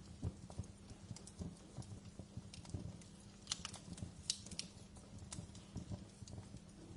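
Wood fire burning in a fireplace, crackling with irregular small snaps and low knocks, and a few sharper pops about halfway through.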